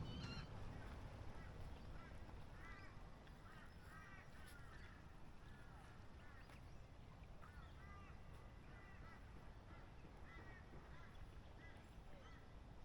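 Faint birds calling again and again in short rising-and-falling calls, over a low wind rumble on the microphone.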